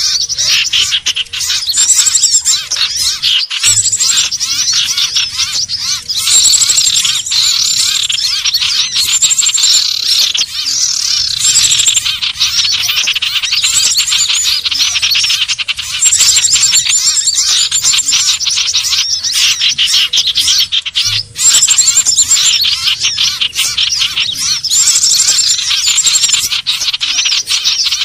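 Common ioras (cipoh/sirtu) calling continuously, played as a bird-lure recording: dense, rapid chattering and whistled notes, with a short high phrase repeated every couple of seconds.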